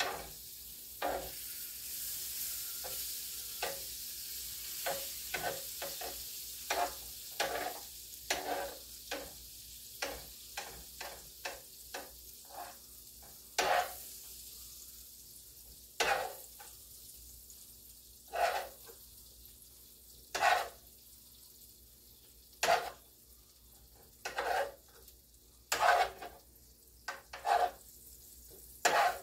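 Food frying in a hot pan: a hiss of sizzling that fades over the first half, with scattered sharp pops and crackles, spaced out to every second or two later on.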